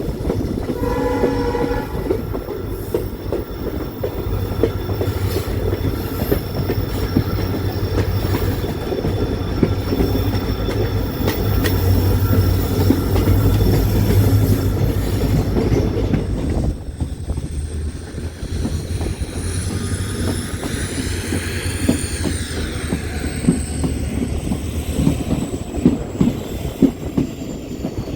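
Train running along the track with a steady rumble of wheels and rail-joint clicks. A short horn blast sounds about a second in, and a high, wavering wheel squeal rises and falls about two-thirds of the way through.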